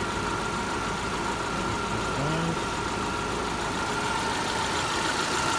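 Citroën C3 engine idling steadily with the air-conditioning compressor running on a freshly replaced pulley bearing. The bearing growl is gone, leaving only the engine's own noise with a steady high hum over it.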